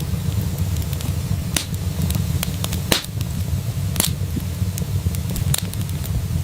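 Wood fire crackling and popping in a fireplace over a steady low rumble, with two louder pops about three and four seconds in.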